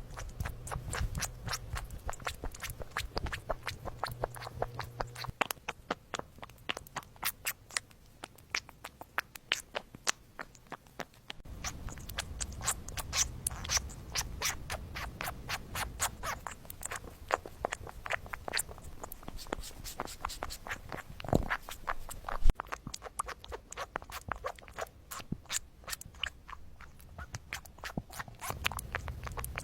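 Kittens lapping milk: quick wet tongue clicks, several a second, in runs with short pauses, and a louder knock a little past the middle.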